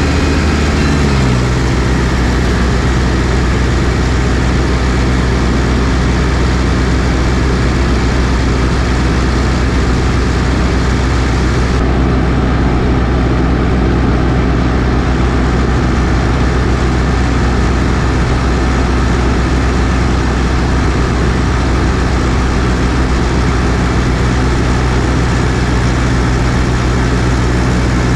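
New Holland T6040 tractor's diesel engine dropping in speed in the first second or so, then running steadily at a low, even speed like an idle.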